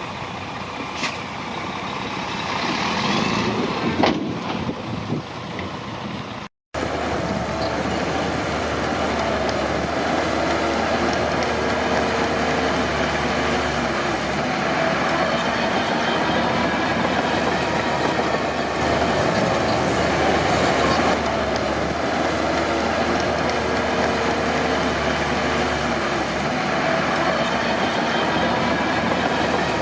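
Heavy earth-moving machinery's diesel engine running steadily. The sound drops out completely for a moment about six and a half seconds in.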